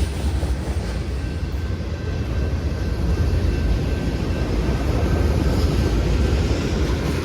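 Freight train cars rolling past on the rails, a steady rumble that grows a little louder about three seconds in.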